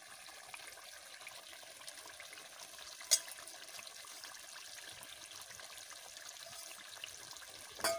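Chicken korma sizzling in a metal kadai on the stove, a steady faint frying hiss, with one sharp click about three seconds in.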